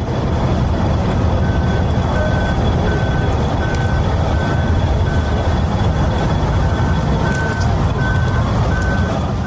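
A vehicle running with a loud, steady low rumble, and a short electronic warning beep repeating about twice a second from about a second and a half in.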